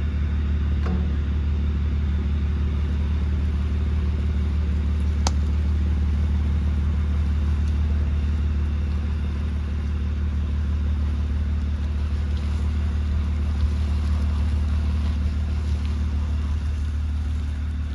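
A car's V6 engine running steadily as the car drives, heard as a constant low drone with road noise. There is a single sharp click about five seconds in.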